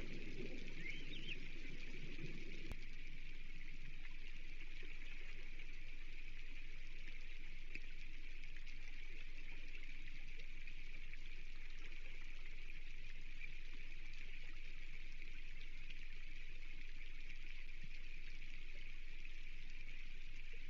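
Steady hiss of heavy rain falling on and around an osprey nest, picked up by the nest-cam microphone.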